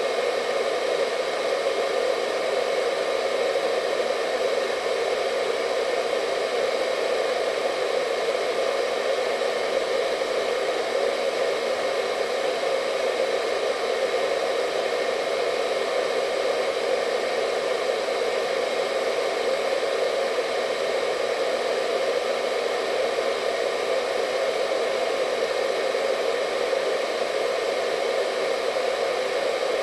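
Hair dryer running continuously at a constant speed: an unchanging whooshing hum of rushing air, strongest in the lower middle, with a faint steady whine from the motor.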